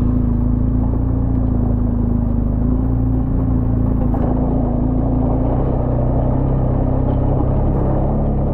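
A vehicle engine running steadily at constant speed: an even, low drone with a steady hum.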